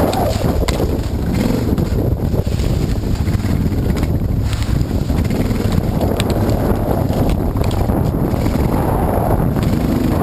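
Off-road motorcycle engine running and revving up and down while riding, under heavy wind buffeting on the camera microphone.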